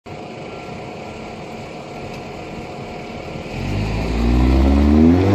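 VW Golf 6 GTI Edition 35's turbocharged four-cylinder engine through a 3-inch BULL-X downpipe and EGO-X valved exhaust, running steadily, then from about three and a half seconds in accelerating, its exhaust note rising in pitch and getting louder.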